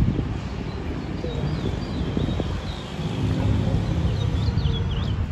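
Small birds chirping in quick high calls that come thicker near the end, over a steady low outdoor rumble of wind and distant traffic.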